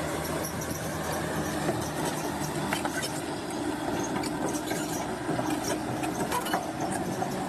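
Bulldozer's diesel engine running steadily, with scattered metallic clicks and clanks from its steel tracks.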